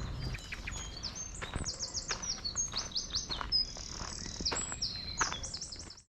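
A songbird singing, a rapid run of short high chirping notes with a buzzy trill in the middle, over footsteps on a path. The sound cuts off suddenly near the end.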